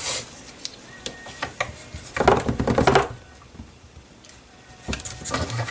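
Rapid clicking and rattling of small hard parts being handled, in a dense bout about two seconds in and a shorter one near the end, with scattered single clicks between.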